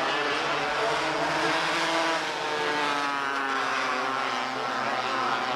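Engines of several small race cars running laps together, their engine notes overlapping and rising and falling in pitch as they accelerate and pass.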